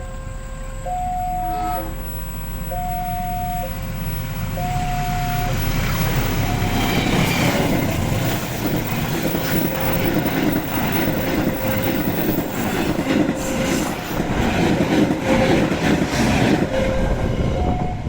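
Level crossing warning alarm sounding an alternating high-low two-note tone, each note about a second long. About six seconds in, a passing train's noise builds and dominates, with wheels clattering over the rail joints, while the alarm carries on faintly beneath it.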